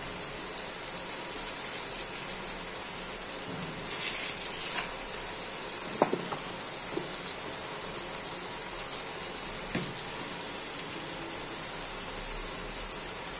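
Chicken pieces and spices sizzling in hot oil in a nonstick pan, a steady frying hiss. A few light knocks of the wooden spatula, the sharpest about six seconds in.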